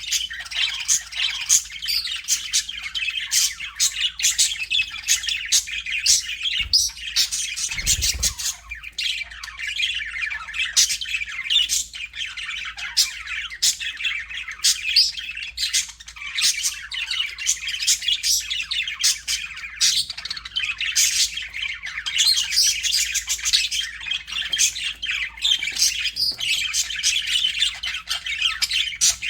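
A flock of budgerigars chattering nonstop: a dense mix of warbling, chirps and sharp squawks. A brief low thump comes about eight seconds in.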